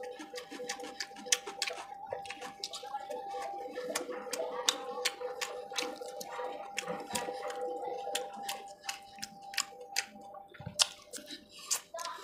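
Close-up chewing and lip-smacking while eating spiced chicken liver bhuna and roast chicken by hand: a dense run of sharp, wet mouth clicks, with a faint steady hum underneath.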